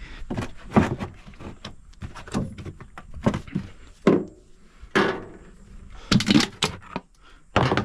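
A series of irregular thuds, knocks and scrapes, about a dozen spread over several seconds.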